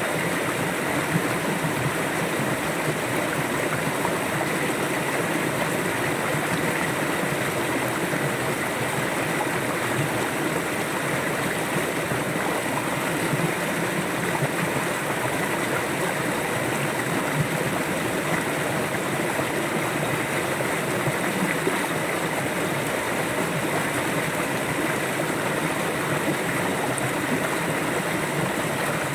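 River water flowing steadily, a continuous even rush of a stream.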